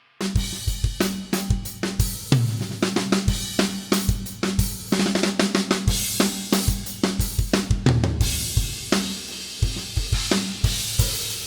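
Drum kit groove played on a Turkish Cappadocia Series 22" ride cymbal, with kick drum and snare hits under a continuous cymbal wash. It starts suddenly just after the beginning.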